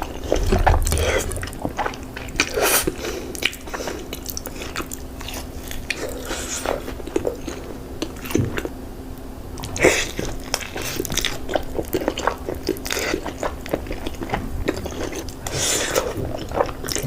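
Close-miked eating: chewing with crisp crunching bites, many short crackles throughout.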